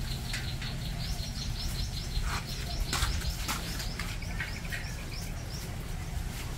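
Small birds chirping, with many short high chirps repeating over a low steady rumble. A couple of sharp clicks come near the middle.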